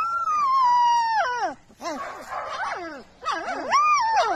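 A young puppy howling: one long high call that slowly sinks in pitch and breaks off after about a second and a half, then a few shorter wavering cries, and a second howl near the end that rises and falls.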